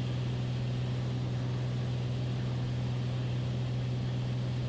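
Beechcraft Bonanza's piston engine and propeller droning steadily in level cruise flight, heard from inside the cockpit as an unchanging low hum with a hiss of air noise over it.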